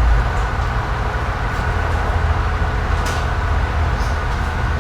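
Steady low background rumble with a faint thin hum above it and a couple of soft brief ticks.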